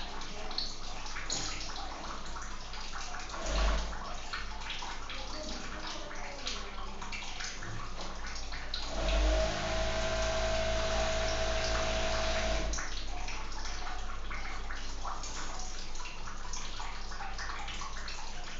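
Running water splashing steadily, full of small sharp droplet sounds. About halfway through, a steady high held tone joins it for around four seconds, then stops.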